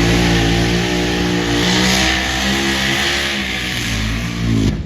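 Diesel truck engine running hard at high revs through a competition pull or run, holding a steady high pitch. It cuts off suddenly near the end.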